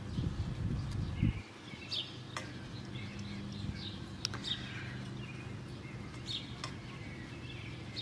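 Outdoor background of scattered bird chirps over a steady low hum, with a low rumble in the first second or so.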